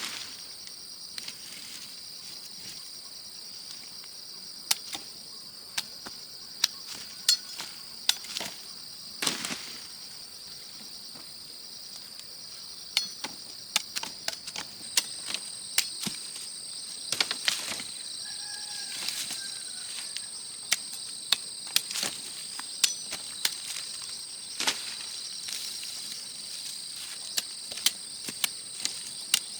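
Steady high-pitched insect chorus, with a second, higher insect joining about halfway through. Irregular sharp clicks and knocks sound throughout.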